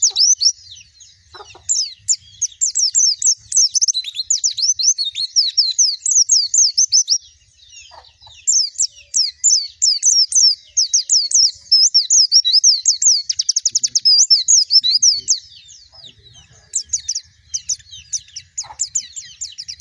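White-eye (pleci) song: long runs of rapid, high, twittering chirps, coming in three long bursts with short pauses between them.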